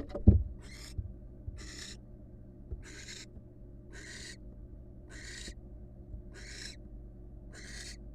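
Barn owl giving rasping hiss calls (the snoring call), each about half a second long, repeated roughly once a second. A heavy thump just after the start is the loudest sound.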